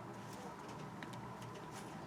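Quiet room tone with a faint tick about a second in, from tarot cards being handled.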